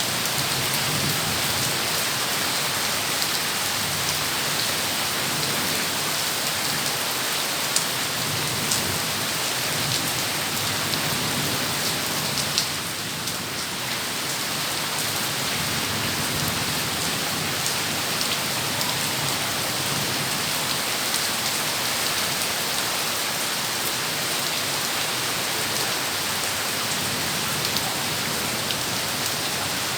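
Heavy rain pouring steadily, with a few sharp ticks of drops standing out; it eases slightly for a moment about thirteen seconds in.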